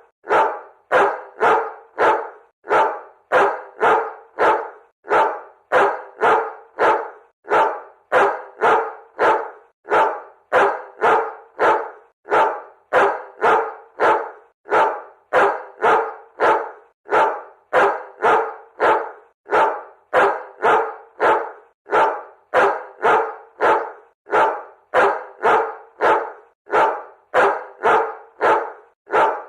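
A dog barking over and over in a steady, unbroken run of short, sharp barks, roughly two a second.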